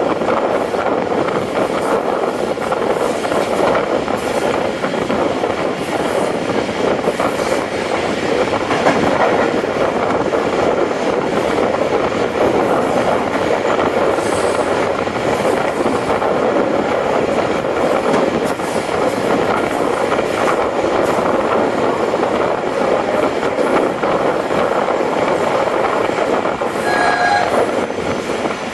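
Steady running noise of a moving passenger train heard from on board: wheels rolling on the rails. A short high tone sounds briefly near the end.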